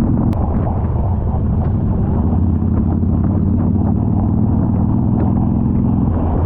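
Harley-Davidson motorcycle's V-twin engine running steadily under way at an even cruising speed.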